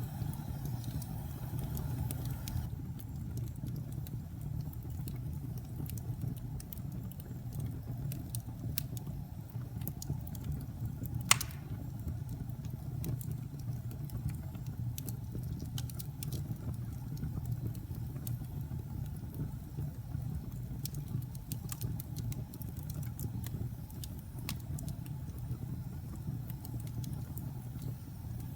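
Fire burning in a fireplace: a steady low rumble with scattered faint crackles, and one sharp loud pop about eleven seconds in.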